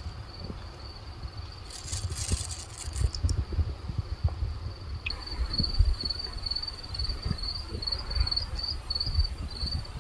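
Crickets chirping in a steady, high, pulsing trill that gets louder about halfway through, over irregular low rumbling and knocks. A brief hiss comes about two seconds in.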